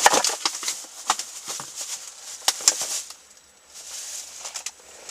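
Handling noises: a series of short clicks and knocks with rustling between them, most of them in the first three seconds, as things are picked up and moved about while getting ready to pour an engine flush.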